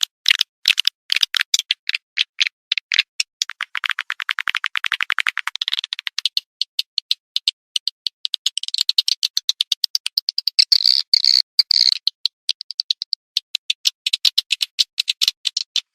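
Swiftlet lure recording: rapid, chattering swiftlet chirps and twitters, with a fast, even run of clicks a few seconds in. This is a call sound played to attract swiftlets to a nesting house.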